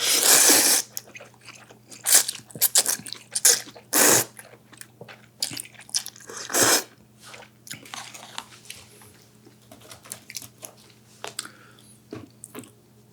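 Close-up chewing and crunching of battered, deep-fried sweet and sour pork (tangsuyuk). Loud crunchy bites come in irregular bursts, the biggest right at the start and a few more in the first seven seconds, with softer wet chewing between.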